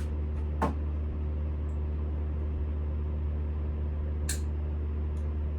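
Steady electric motor hum with a low drone and several steady tones above it. Short sharp clicks or scrapes break in about half a second in and again around four seconds in.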